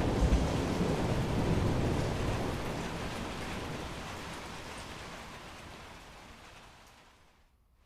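Thunder rumbling and fading away over several seconds under rain hiss. Near the end the sound drops almost to silence for a moment.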